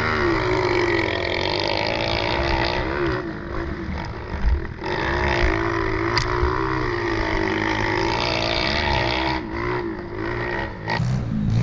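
Small four-stroke pit bike engine revving up and down again and again as it rides around the dirt track, its pitch rising and falling with each throttle change.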